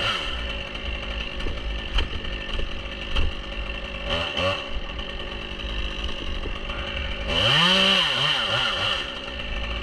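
Two-stroke chainsaw idling, blipped briefly about four seconds in, then revved up and back down near the end.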